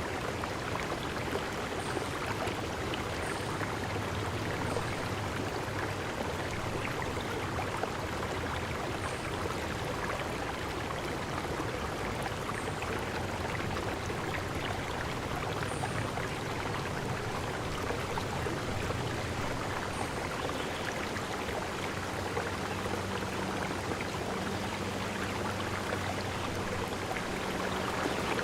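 Steady rush of a stream's running water, with a few faint, short high chirps now and then.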